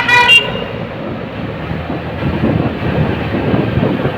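Motorcycle taxi running on the road, a steady rough engine and road rumble with wind on the microphone. It opens with a brief high-pitched beep-like tone that stops in the first half-second.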